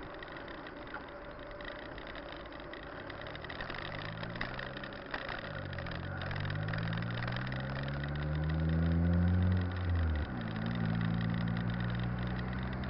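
A motor vehicle's engine pulling away and speeding up, its pitch and loudness rising for several seconds. Near ten seconds in the pitch drops suddenly, and the engine runs on steadily at the lower pitch, over a steady hiss of wind and road noise.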